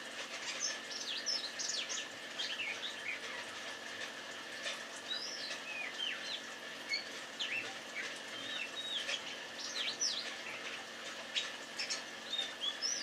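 Male Oriental magpie-robin (kacer) singing to call a female: a steady run of varied short whistles and quick up-and-down chirps with brief gaps between phrases.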